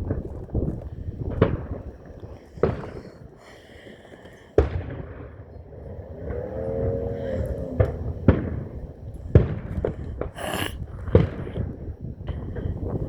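Fireworks display: aerial shells bursting in a string of sharp booms, irregularly spaced about one to two seconds apart, over a continuous low rumble.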